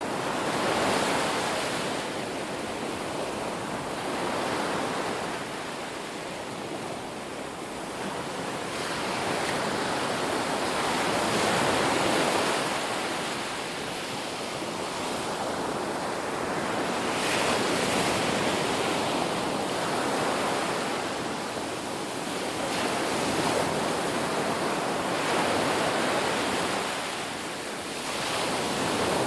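Sea waves breaking and washing in, a steady rush of surf that swells and eases every few seconds.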